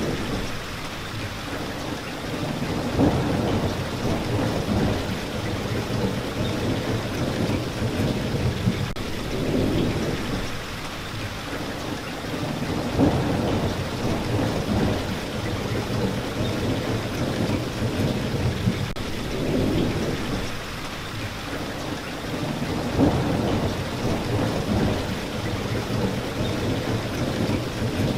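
Steady rain with a low rumble of thunder that swells and fades every few seconds.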